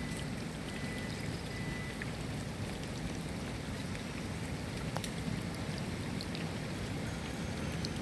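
Steady rain falling, with scattered individual drops ticking sharply through the even hiss.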